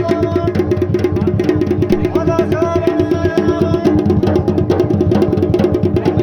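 Folk dance music: rapid, even drum strokes under a sustained melody instrument whose held notes slide between pitches. This is the accompaniment for a Pandav Nritya dance.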